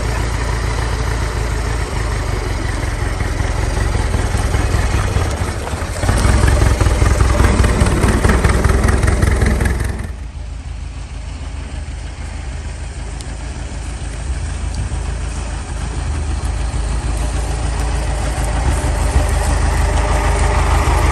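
1924 Ford Model T truck's four-cylinder engine running as the truck is tried out on the move. The engine gets louder about six seconds in, drops off sharply about ten seconds in, then slowly builds again toward the end.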